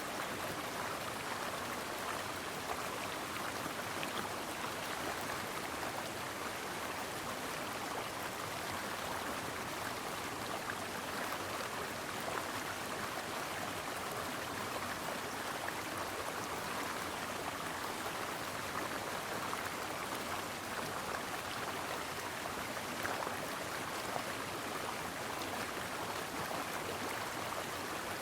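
A shallow stream of water flowing and babbling over rocks. It is a steady rush with small splashes scattered through it.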